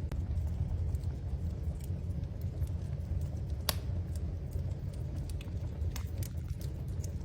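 Wood fire crackling in a fireplace: scattered small crackles and one sharper pop about halfway through, over a steady low rumble.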